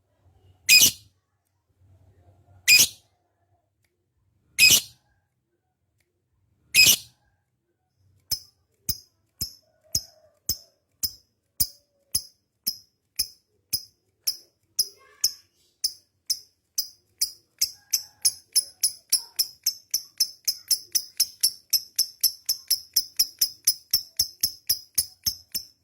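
Lovebird calling: four loud shrill calls about two seconds apart, then from about eight seconds in a long run of short, sharp, high chirps that speeds up to about three a second. This is the long 'ngekek' chatter that lovebird keepers breed and train for.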